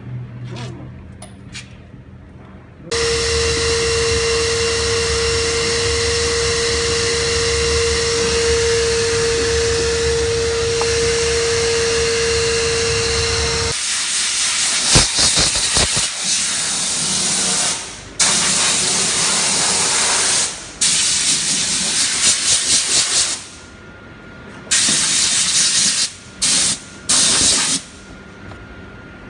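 Steam car-wash cleaner's lance hissing: one long continuous spray for about ten seconds with a steady tone in it, then shorter blasts that start and stop abruptly, about five of them, as the trigger is squeezed and released.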